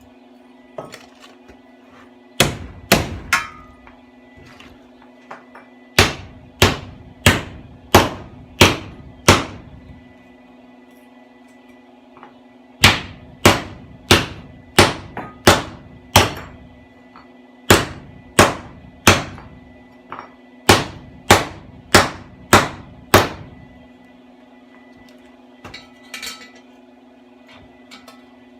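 Hammer blows on metal: sharp ringing strikes in runs of three to nine, about one and a half a second, with pauses between the runs. A steady low hum runs underneath.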